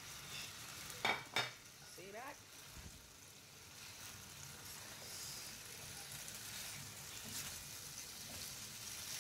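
Hake chunks, peppers and onions faintly sizzling as they are stir-fried in a pan, with two sharp clicks a little after a second in.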